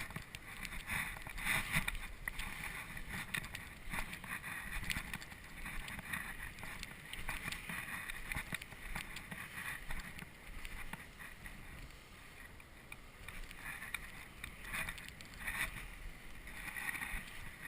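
Gusting wind buffeting the camera microphone, with snow crunching underfoot as someone walks across drifted snow.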